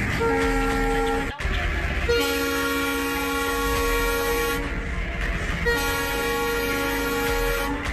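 Diesel locomotive horn sounding three blasts, a short one then two long ones, over the steady low rumble of the moving train.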